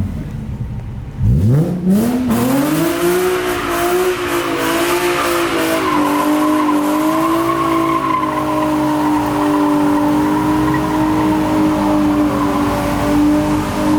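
A car doing a burnout or donut: its engine revs up sharply about a second in and is held at high revs while the spinning tyres squeal and hiss on the pavement.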